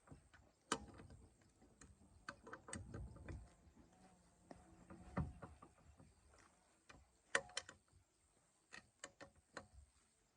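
Scattered light clicks and knocks at irregular intervals, with a few duller thumps, all faint.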